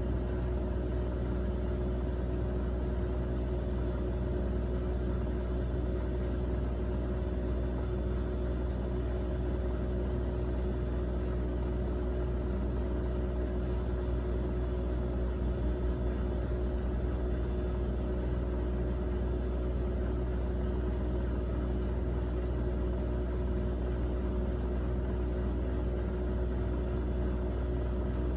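Miele Navitronic W3985 WPS washing machine running steadily on an Express 40° wash, a constant low rumble with a steady whine held over it and no pauses.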